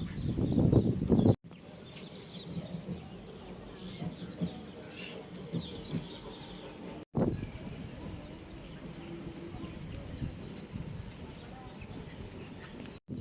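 Outdoor lakeside ambience: insects keeping up a steady high-pitched drone while birds give scattered short calls. A loud low rumble fills the first second or so, and the sound cuts out briefly twice where clips are joined.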